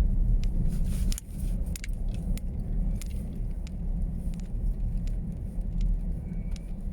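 A car's steady low rumble of engine and road noise, heard from inside, with scattered light clicks and rattles.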